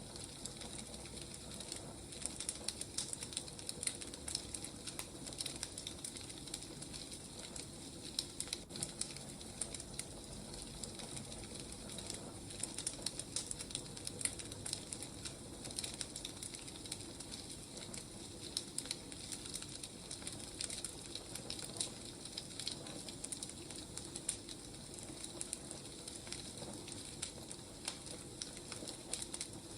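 Burning firewood crackling, with frequent irregular sharp pops and snaps over a soft steady hiss.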